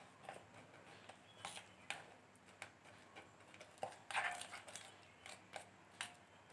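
A kitchen utensil stirring mashed banana and powdered sugar in a bowl: faint, irregular clicks and scrapes against the bowl, a little louder about four seconds in.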